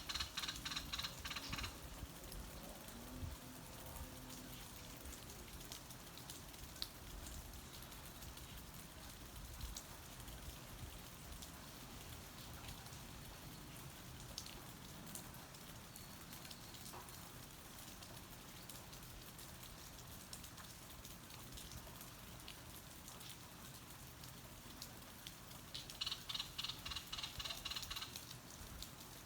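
Steady rain with scattered drops tapping close by. A rapid pulsing trill sounds briefly at the start and again for about two seconds near the end.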